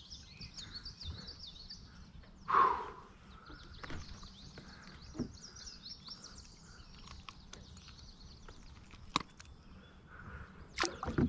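Birds chirping continuously in quick, repeated high notes, with one short louder sound about two and a half seconds in and a few sharp knocks, the loudest of them near the end.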